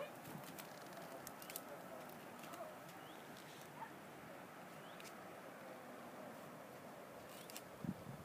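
Quiet outdoor ambience with faint, scattered bird chirps and a few light clicks, and a couple of soft thumps near the end.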